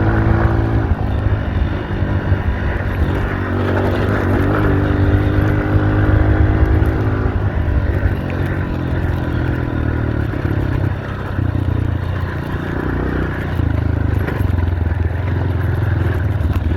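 Dirt bike engine running under a rider, the revs rising and falling with the throttle.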